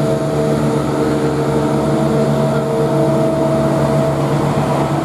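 Class 170 Turbostar diesel multiple unit pulling away under power, its underfloor diesel engines giving a loud, steady drone.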